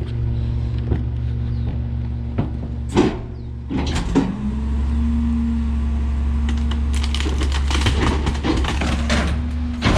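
McNeilus rear-loader garbage truck running its compactor: a steady engine and hydraulic hum with a pitched whine that shifts about four seconds in. Two sharp knocks come near three and four seconds in, and from about seven seconds on there is a run of crackling and snapping as the load is crushed.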